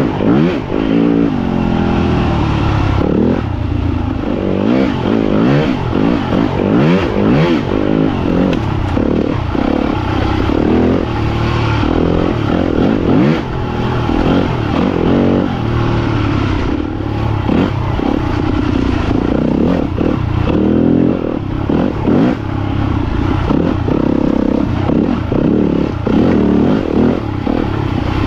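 Yamaha YZ250FX four-stroke single-cylinder dirt bike engine revving up and down constantly through the throttle, with short knocks and rattles throughout.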